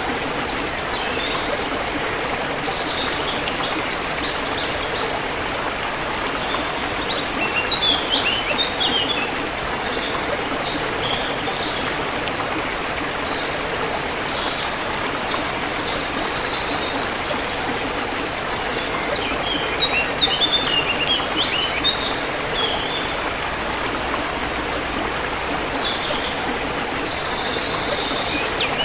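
Forest river flowing steadily, with songbirds chirping above it in short bursts, busiest near the start of the second third and again past the middle.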